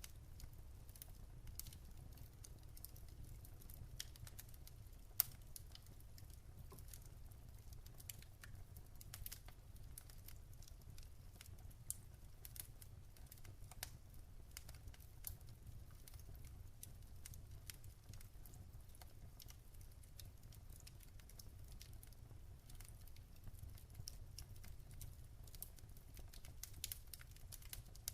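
Wood fire crackling softly, with irregular sharp snaps and pops and one louder pop about five seconds in, over a low steady rumble.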